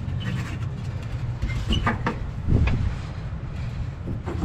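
A steady low drone, with a few sharp knocks and clicks of parts being handled as the inducer motor and its gasket are fitted, the loudest about two and a half seconds in.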